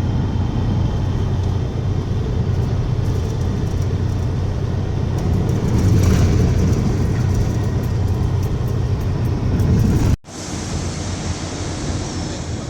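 Semi-truck's steady, loud low rumble with road and cab noise and some faint rattling clicks. It breaks off for a moment about ten seconds in, then carries on slightly quieter.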